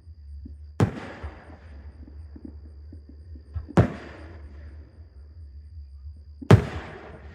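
Fireworks shells bursting overhead: three loud bangs about three seconds apart, each trailing off in a decaying rumble, with a smaller pop just before the second.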